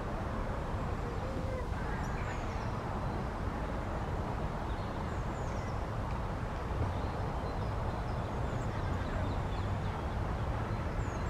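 Steady outdoor background noise with a low hum, and faint, short high-pitched bird chirps four or so times.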